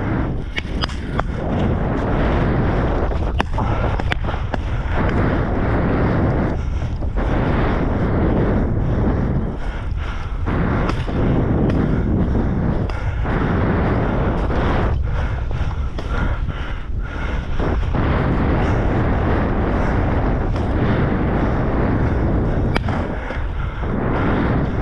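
Loud rushing noise that swells and dips every second or two, with a few sharp clicks: wind and brush buffeting the microphone while walking through thick pheasant cover.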